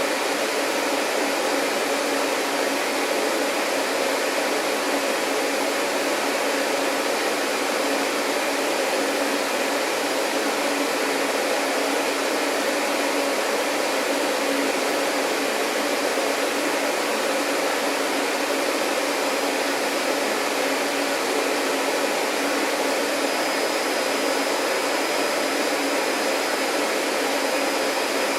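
Vacuum cleaner motor running steadily, an even rushing whoosh with a low hum under it; a faint high whine joins near the end.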